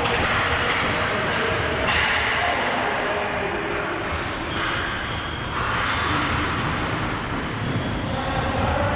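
Playing-surface sounds of a recreational hockey game: steady scraping and shuffling from play, with a few sudden knocks and faint distant voices.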